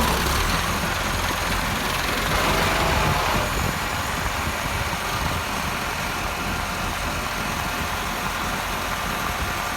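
Tractor engine running steadily, a little louder for a moment about three seconds in.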